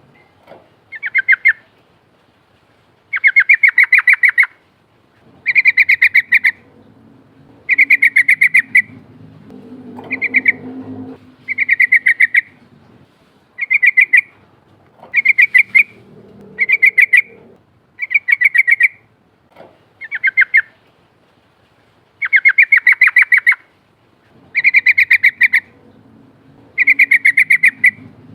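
Yellow-vented bulbul (trucukan) giving its rolling chatter call: loud, rapid rattling trills repeated every second or two, some short and some running about a second and a half.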